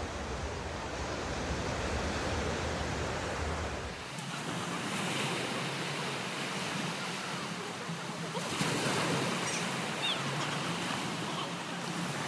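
Ocean surf washing onto the shore, swelling and easing as waves break. Wind rumbles on the microphone for the first four seconds, then cuts off suddenly.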